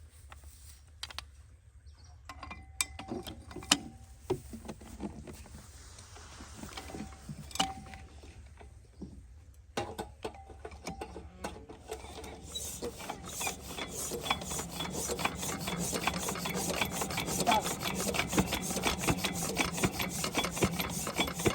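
Scattered knocks and clicks of hand work on machinery, then from about halfway a dense, quickening run of rapid clicks and rasping rubs that grows louder.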